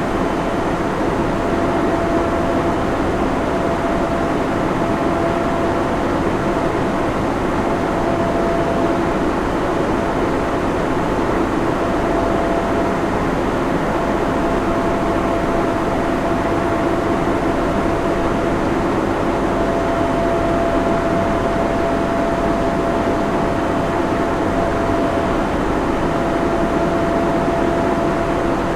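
Server room ambience: the steady rush of cooling fans and air handling, with a constant hum of a few steady tones over the noise.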